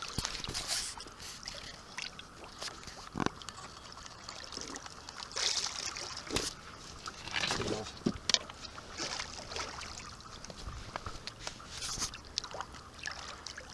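Shallow river water splashing and sloshing in scattered short bursts with a few sharp knocks, as a large sturgeon is held in the water and released.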